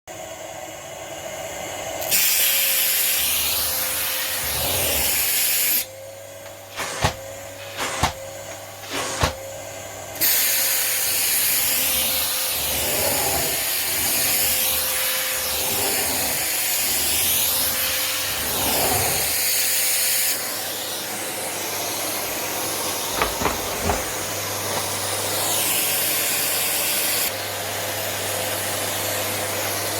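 Rowenta RO6835 vacuum cleaner running with a steady rushing hiss of suction airflow. For a few seconds about six seconds in, the hiss drops and sharp clicks of fingernails tapping on the housing stand out. The hiss then comes back and steps down in level twice.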